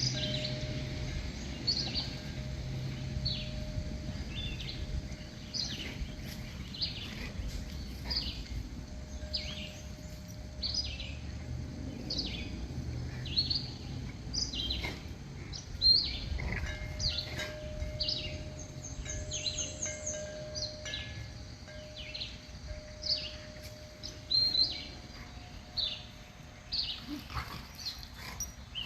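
Wild songbirds calling: a steady string of short, down-slurred chirps, about one or two a second, with a brief rapid high trill from another bird partway through. A faint steady hum comes and goes underneath.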